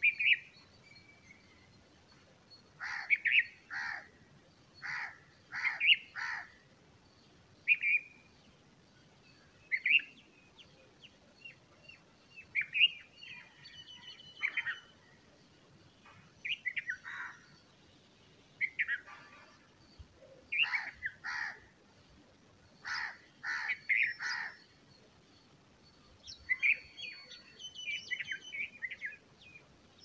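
Short bird chirps, single or in quick runs of two or three, every second or two, over quiet background.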